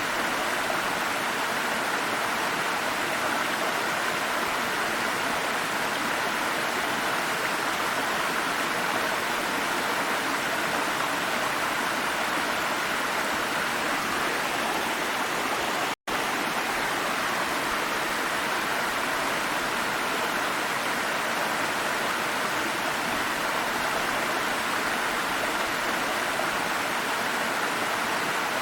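Water stream running over rocks, a steady, even rush. The sound cuts out for an instant about two-thirds of the way through.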